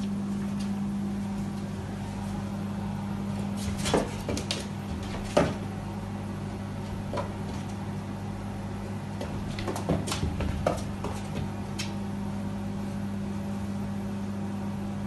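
A steady machine hum, like a running household appliance, with a handful of sharp clicks and knocks over it, most of them about four, five and ten seconds in.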